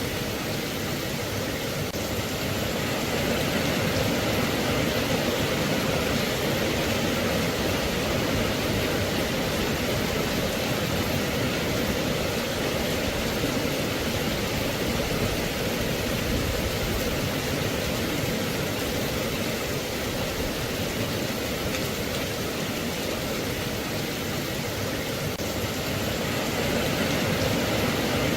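Steady rain falling: a dense, even hiss without single drops standing out, swelling slightly a few seconds in.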